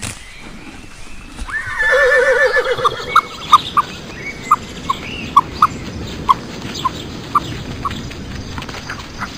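A horse whinnying once, a wavering call about a second and a half in. It is followed by a string of short, sharp high blips, irregularly spaced.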